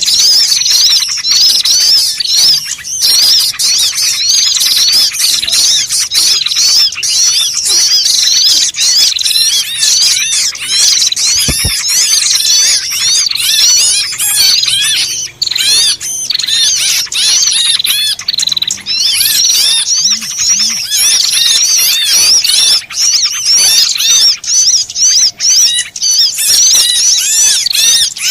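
A loud, dense chorus of many small birds chirping and squawking at once, with rapid overlapping high-pitched calls. It is a noisy, agitated flock of the kind played as a lure to call small birds in.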